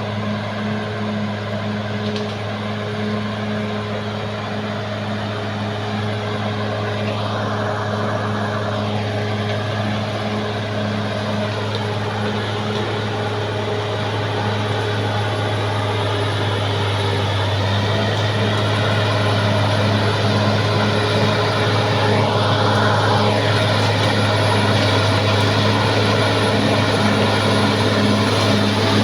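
Caterpillar D6R XL bulldozer's diesel engine running steadily under work, growing louder a little past halfway. Twice a brief higher-pitched noise rises over it.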